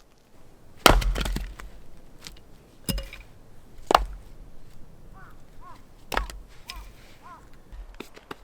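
Firewood being chopped: four sharp blows on wood, about a second or two apart. The first and loudest is followed by a short crackle of the wood splitting.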